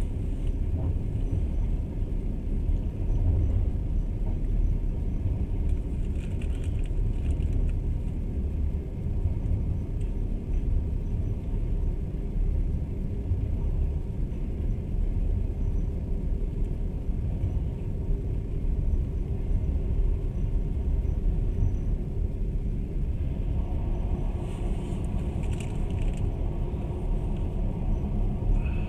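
Passenger train's steady low running rumble heard from inside the carriage, the noise of wheels on rails and the moving car. Twice a brief higher noise joins in, about six seconds in and again near the end.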